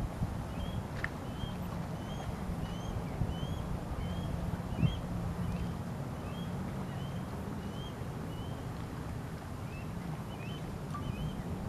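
Low wind rumble and a steady low hum under a bird repeating a short rising chirp about twice a second, with a pause past the middle. One soft thump about five seconds in.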